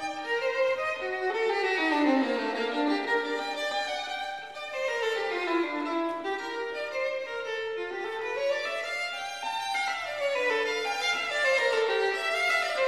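Background music: a violin playing quick runs of notes that sweep down and back up, over and over.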